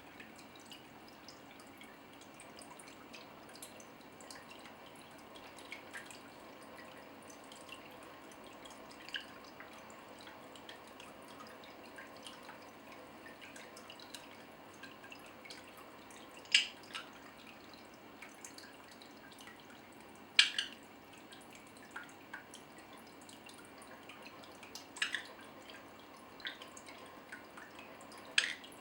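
Water dripping and trickling, a faint steady wash with scattered small drips and four louder plinking drops in the second half.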